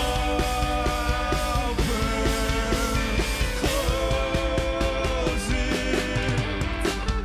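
Rock band playing live, with a steady drum beat under sustained guitar chords.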